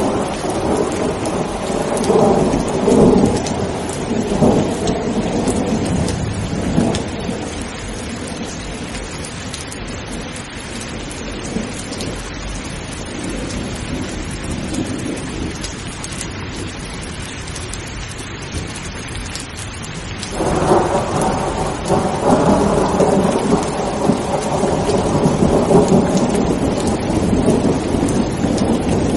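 Steady rain with thunder rumbling: a long rumble over the first several seconds dies away, then a new peal breaks in suddenly about two-thirds of the way through and rumbles on.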